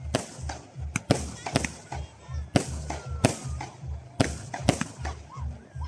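Fireworks display: aerial shells bursting in quick, irregular succession, about a dozen sharp bangs with crackling and deep booms in between.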